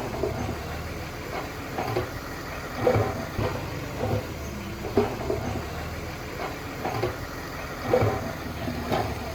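Heavy earthmoving machine's diesel engine running steadily, with short metallic clanks or knocks recurring roughly once a second.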